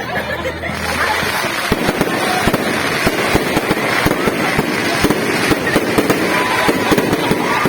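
Fireworks going off. The noise swells about a second in, then becomes a dense, rapid run of sharp bangs and crackles.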